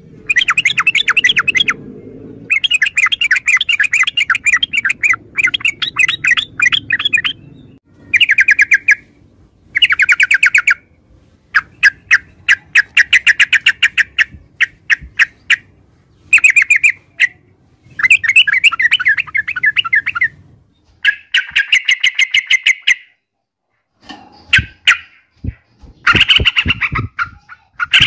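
Yellow-vented bulbul singing: short phrases of rapid notes, each a second or two long, repeated again and again with brief pauses between them.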